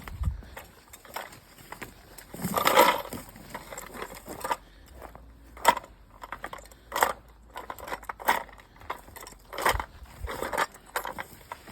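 Footsteps crunching on a woodland trail, with a carried noise-maker rattling at irregular intervals about once a second. The rattling is made on purpose to warn wildlife of a person coming.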